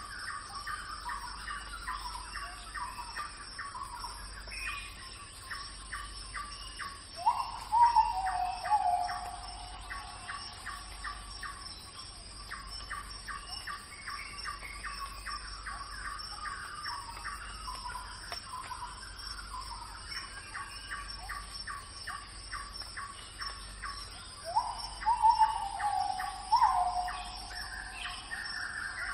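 Birds calling: a fast, continuous run of short chirps, with two louder calls that fall in pitch about a quarter of the way in and again near the end, over a steady high-pitched whine.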